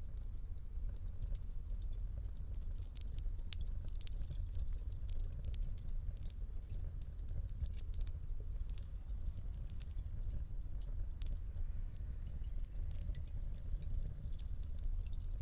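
Wood fire crackling in a fireplace: a steady stream of small sharp pops and snaps over a low rumble of the flames.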